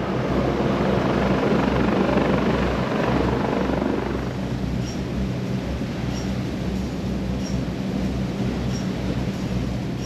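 Tour boat's engine running steadily underway, a low drone with a constant pitch, under a rushing wash of wind and water that is loudest for the first four seconds and then eases.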